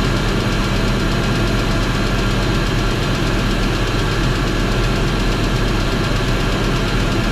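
BMW X5 E53 4.4i's M62 V8 engine running steadily with a fast, even ticking knock, which the owner suspects is a worn connecting-rod bearing.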